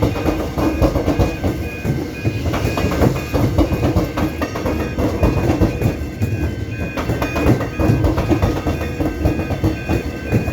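Train running over the tracks with rumble and wheel clatter, a high tone pulsing about three times a second above it, mixed with background music.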